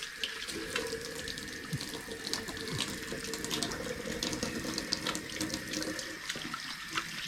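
Kitchen tap running into a sink while hands are rinsed under it, the water splashing steadily; the hands are being washed clean of sticky egg white.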